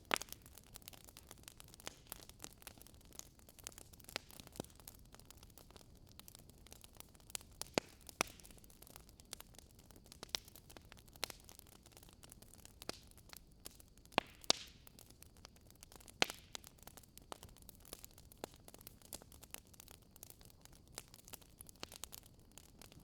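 Wood fire crackling in a fireplace: irregular sharp pops and snaps over a soft hiss, with a few louder snaps, two of them close together a little past halfway.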